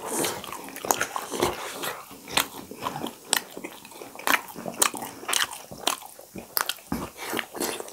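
Close-miked eating of momos and pani puri: wet chewing and crunching, with many sharp, irregular mouth clicks several times a second.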